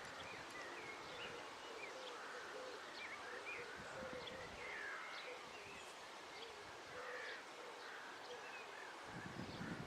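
Faint chirping calls of birds, many short quick notes scattered throughout, over a steady outdoor background hiss.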